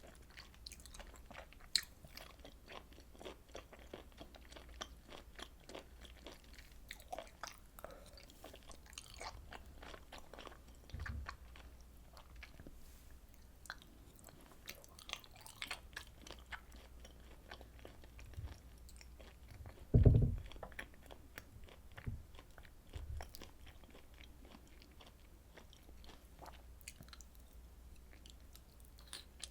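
Close-miked eating of grilled beef and pork intestines: steady wet chewing with many small crunching clicks, and one brief, louder low thump about two-thirds of the way through.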